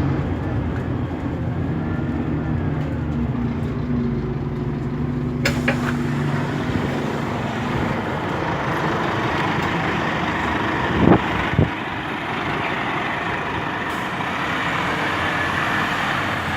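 A Scania DC9 five-cylinder diesel city bus running with a steady engine hum. About five seconds in, a click is followed by a broader rushing noise. Near the middle come two short, sharp sounds half a second apart.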